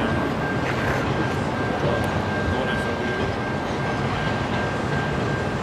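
Double-stack intermodal freight cars rolling past: a steady rumble and rattle of wheels and cars, with a thin, steady high-pitched tone joining about half a second in.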